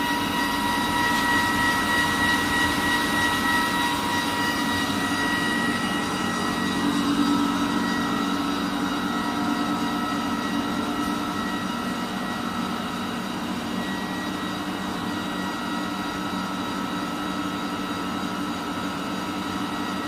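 A 2008 Haas TL-3B CNC lathe running: a steady mechanical hum with a whine of several held tones that drift slightly in pitch. It gets a little quieter past the middle.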